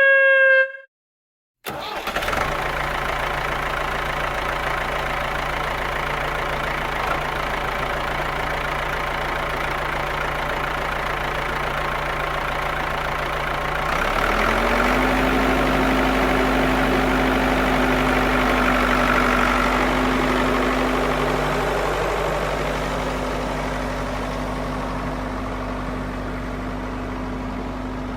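A motor vehicle engine starts up and runs steadily at idle, then about 14 seconds in it speeds up and holds at a higher, louder pitch before easing slightly. A short pitched tone sounds right at the start, before the engine.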